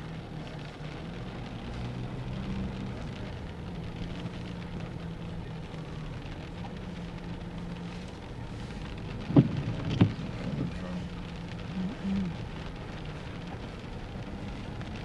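Car running with a steady low hum and road noise. Two loud knocks about half a second apart come just past the middle.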